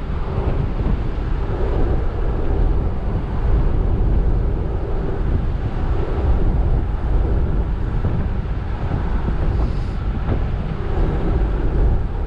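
Steady road rumble and wind noise from a truck driving at highway speed, with wind buffeting the microphone.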